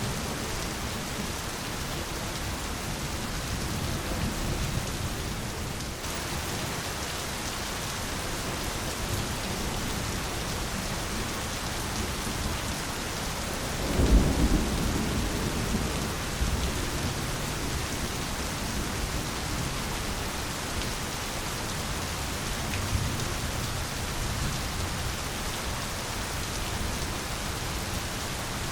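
Steady heavy rain falling on jungle foliage, with a clap of thunder rolling in about halfway through and fading over a few seconds.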